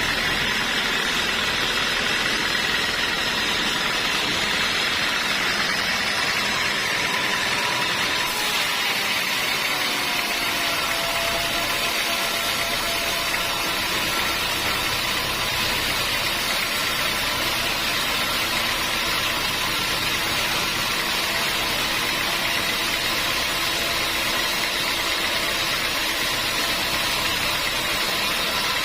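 Sawmill machinery running steadily, with a whining tone that drops in pitch about ten seconds in and then holds.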